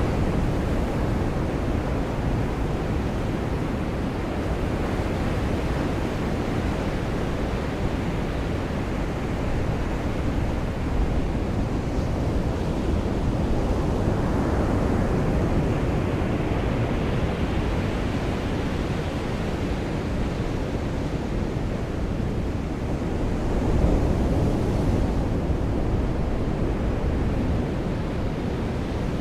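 Surf washing onto a beach under steady rain: a continuous wash of noise that swells and eases slowly, with a stronger surge about halfway through and another briefly near the end.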